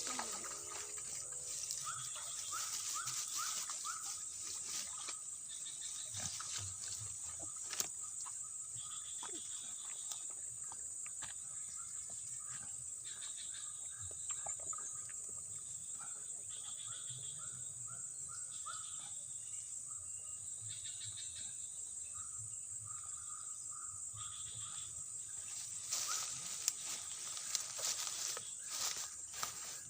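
Steady high-pitched drone of insects, with runs of short rising chirps from calling animals between about two and twenty seconds. Occasional clicks and rustles, more of them near the end.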